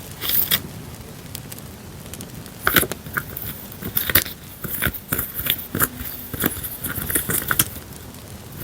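Crackling campfire sound with irregular sharp pops, mixed with short rustles and taps of paper journaling supplies being handled.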